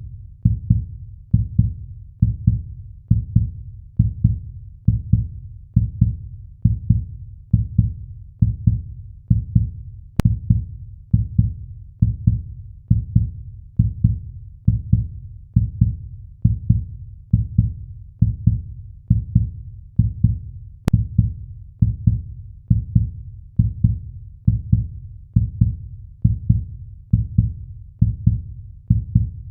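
Heartbeat sound: a steady, low beat of about one heartbeat a second. Two faint clicks come through, about ten and twenty-one seconds in.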